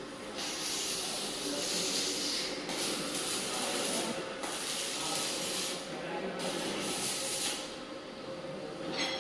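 Electric arc welding on steel railing: the arc sizzles in four runs of one to two seconds with short breaks between, over a steady low hum.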